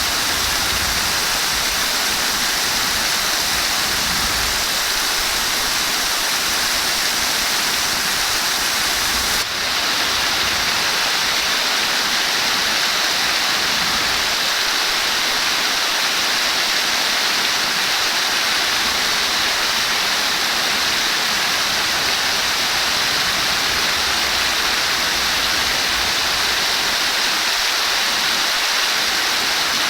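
Flowing water, a steady rushing hiss with a short break about nine and a half seconds in.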